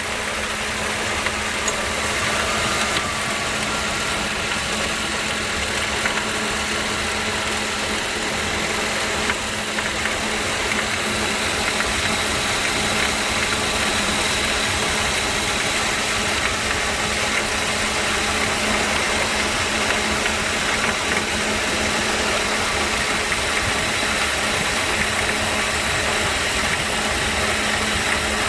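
Car engine running with a noisy air-conditioning compressor engaged: a steady mechanical drone with a constant hum, unchanging throughout.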